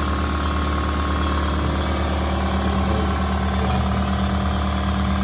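A machine running steadily: a low, even hum over a constant hiss. This is the vacuum coolant-fill machine drawing the air out of the engine's cooling system so it needs no bleeding.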